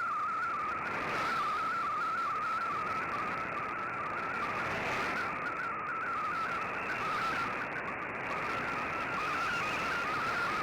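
Shortwave MFSK digital data signal as heard through a communications receiver: a warbling stream of quickly shifting tones in a narrow band, over steady radio hiss.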